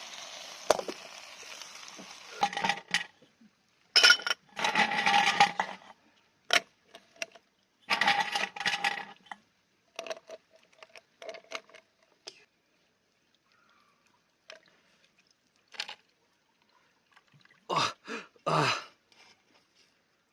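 Food sizzling in a pan as a steady hiss that stops about two and a half seconds in, followed by a run of short metal clinks, clatters and scrapes of camp cookware and utensils, with silent gaps between them.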